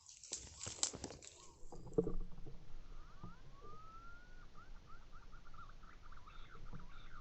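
A few clicks and knocks, then a long run of short, thin, high chirps with one longer gliding whistle: bird calls, likely in the hunting ground.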